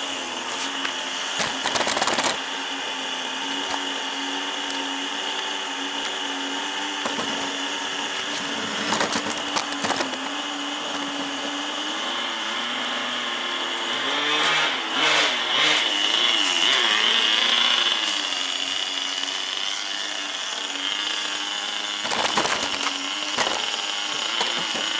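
The small nitro glow engine of a Tamiya TGS 1/10 RC car running at a high-pitched buzz as the car is driven, its pitch wavering up and down with throttle and loudest around the middle.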